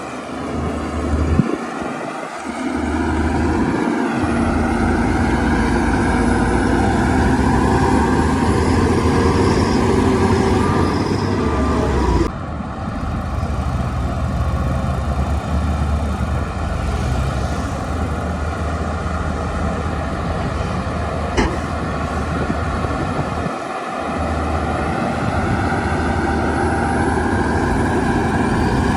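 Shantui DH17-C2 bulldozer's diesel engine working under load while pushing dirt, its pitch rising and falling as the throttle changes. The sound changes suddenly about twelve seconds in, and there is one sharp click about twenty-one seconds in.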